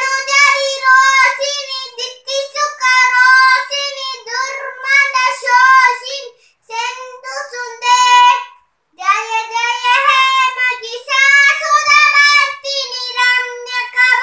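A young girl singing solo with no accompaniment, in phrases of a few seconds separated by short pauses for breath.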